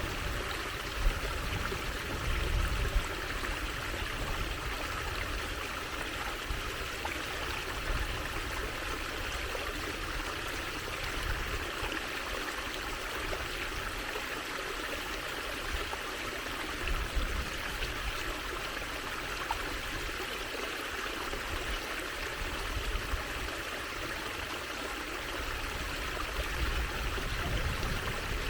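Water trickling and running steadily in a small stream, an even rushing with small splashes.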